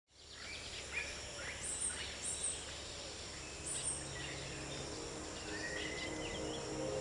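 Countryside ambience fading in: scattered short bird chirps over a steady high insect buzz.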